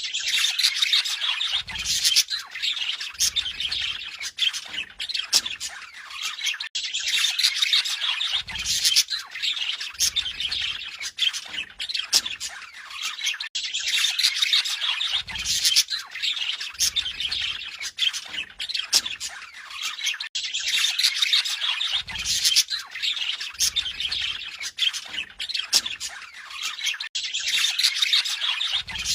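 Budgerigars warbling and chattering without a break, a dense run of fast squeaky notes and squawks.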